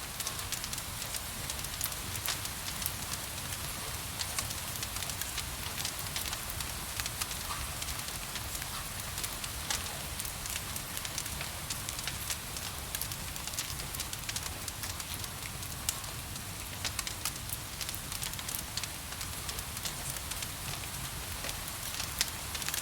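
Wood fire in a fireplace crackling, with frequent sharp pops and snaps over a steady soft hiss of rain and a low rumble.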